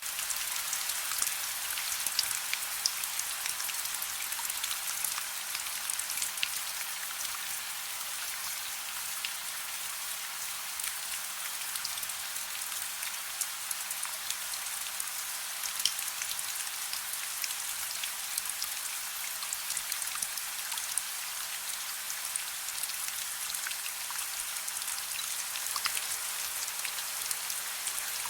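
Steady soft rain: an even, high hiss with many individual drops ticking on a surface.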